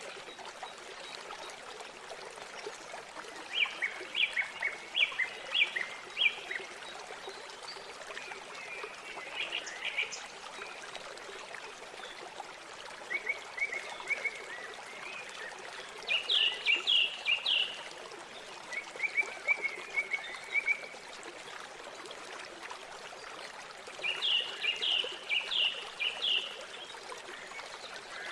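River water flowing steadily, with a songbird repeating short phrases of quick high notes every few seconds.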